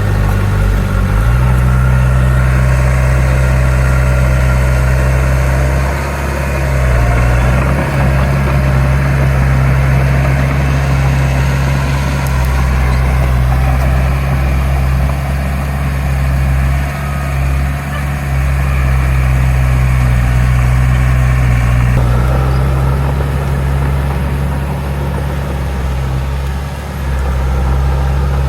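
Heavy diesel earthmoving machine engine running steadily, with a deep, steady note whose pitch shifts a few times as the load changes.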